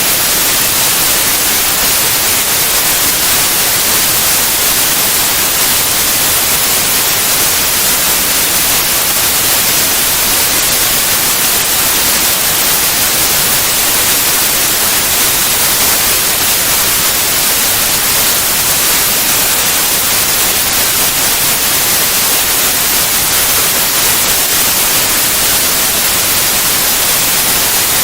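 Steady white noise, an even hiss with its energy weighted toward the high end.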